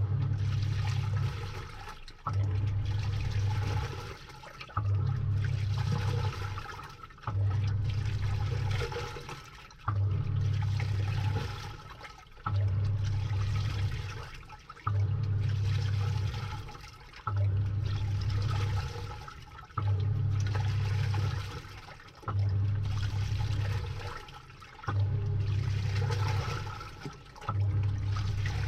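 Samsung 6.5 kg top-load washing machine agitating, heard from inside the drum: the pulsator motor hums in strokes about every two and a half seconds, each stroke stirring a surge of sloshing water and clothes that fades before the next.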